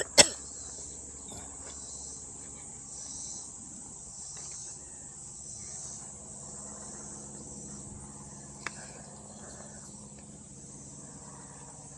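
A steady high-pitched outdoor insect chorus, with a faint low drone of a distant airplane underneath. A sharp click sounds just after the start, and a smaller one near the end.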